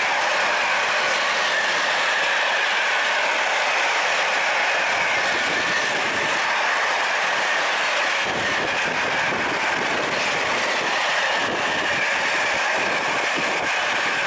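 A train passing on the line, its wheels on the rails making a steady rushing noise.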